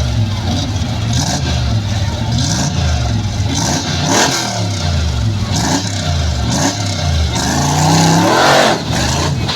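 Off-road 4x4's engine revving up and down again and again, with a few knocks; it revs hardest and loudest near the end.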